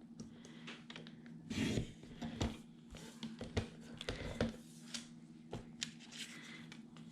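Paper craft pieces being handled on a work surface: a string of light rustles, taps and clicks, the loudest about a second and a half in, over a faint steady hum.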